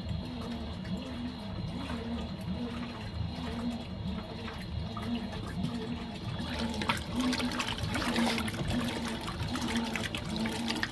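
Fisher & Paykel MW059 washing machine during a wash: water rushing and splashing in the tub over a steady, pulsing machine hum. The water sound grows louder from about six seconds in.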